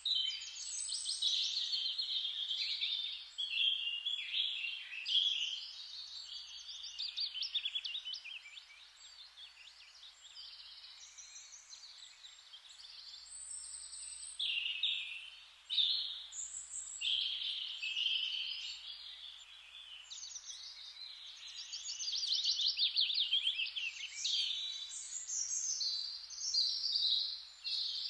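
Songbirds singing, their chirps and fast trilled phrases overlapping at different pitches, thinning briefly about a third of the way in before filling back up.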